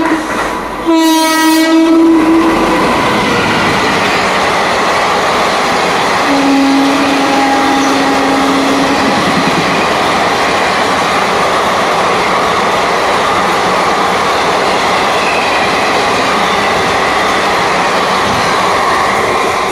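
Indian Railways express train passing at speed: the locomotive's horn sounds for the first two to three seconds, then a steady rush of wheel and rail noise as the passenger coaches go by. A second, lower-pitched horn blast comes about six seconds in and lasts nearly three seconds.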